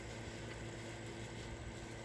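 Steady outdoor background noise: an even hiss with a faint steady hum underneath and no distinct calls or events.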